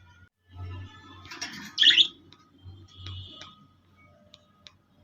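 Birds chirping and calling, with one loud, harsh call about two seconds in and a few short sharp ticks in between.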